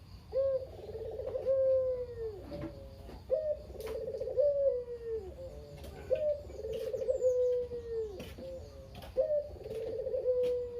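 A male Barbary dove (burung puter) cooing repeatedly. Each low, rolling coo is about a second long and often comes in pairs, repeating every two to three seconds.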